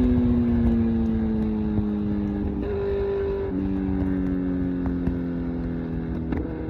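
Kawasaki Z900's 948cc inline-four through an SC Project exhaust, off the throttle and slowing: the engine note falls steadily, with a brief step up in pitch a few seconds in.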